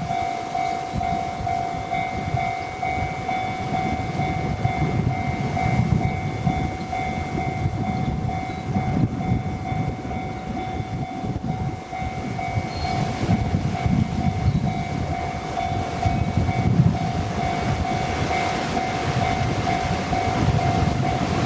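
A freight train hauled by a JR Freight EF210 electric locomotive running past, followed by strong gusty wind buffeting the microphone. A steady, pulsing ringing tone sounds throughout.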